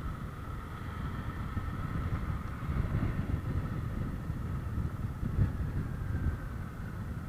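Vehicle on the move: a low, uneven rumble with a steady high whine over it.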